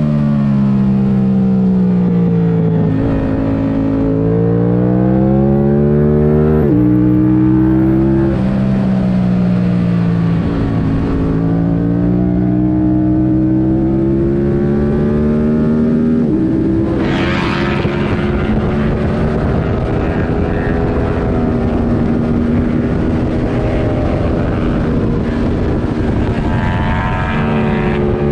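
Yamaha R7's parallel-twin engine, airbox removed and fitted with a MIVV Delta Race exhaust, revving hard and easing off lap after lap. The revs climb, drop abruptly at quick upshifts about 7 and 16 seconds in, and fall away under braking into corners. Wind rush swells briefly just after the second upshift.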